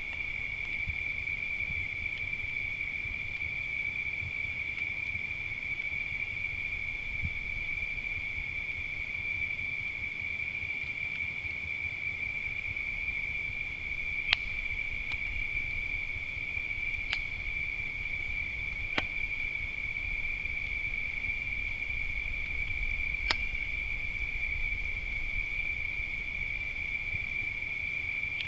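Crickets trilling steadily in a continuous high chorus, with four sharp pops from a crackling wood fire, the loudest about 14 seconds in.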